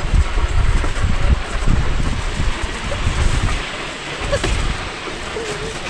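Wicker basket toboggan on wooden runners sliding down a paved road, a loud rough rumble with wind buffeting the microphone; the rumble eases off about three and a half seconds in.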